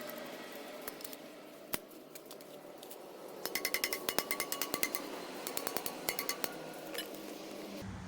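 Quick run of light metallic clicks, about eight a second, from a hand tool working on the cylinder head's valve parts. It starts about three seconds in, lasts about three seconds, and follows one earlier single click.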